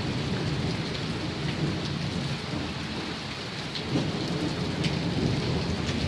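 Heavy downpour of rain pouring steadily, with thunder rumbling low underneath.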